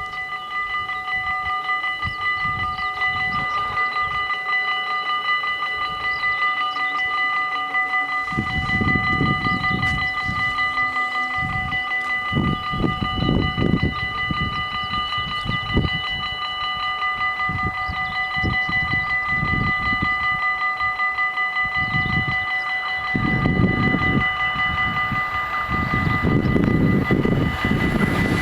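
Electronic warning bells of a Dutch level crossing (Mini-AHOB) ringing continuously, with steady rumbling underneath. Right at the end a broader rushing noise starts to rise.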